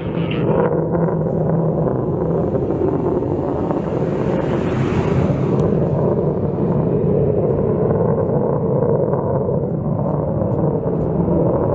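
Jet engines of a B-1B Lancer bomber: a loud, steady rumble, with a hiss that swells about two seconds in and fades again after about six.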